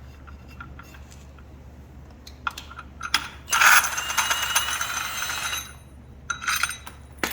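Metal tool and clutch parts being handled on a Polaris RZR's primary clutch: light clicks and knocks, then a loud ratcheting, whirring metallic rattle for about two seconds midway, followed by a few more clinks.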